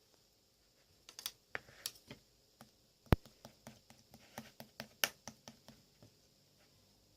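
Slime being squeezed and pressed by hand, giving an irregular run of sharp clicks and pops, one much louder about three seconds in.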